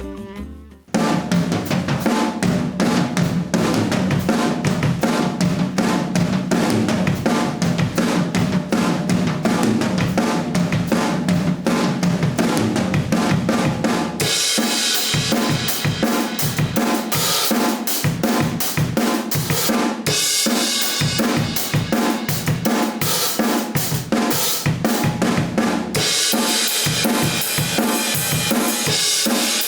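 Acoustic drum kit played in a busy groove of kick, snare and toms, close-miked, starting about a second in. The tone changes abruptly every several seconds, with cymbals much brighter in some stretches than others.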